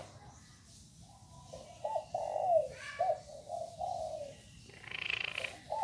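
Chinese francolin crowing: one phrase of several harsh, low notes starting about two seconds in and lasting under three seconds, with the next phrase beginning at the very end.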